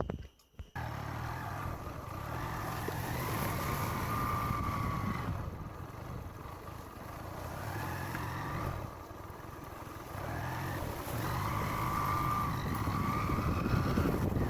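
A motor vehicle being driven along a road, engine and road noise starting abruptly about a second in, with the engine's pitch rising and falling a few times as it speeds up and changes gear.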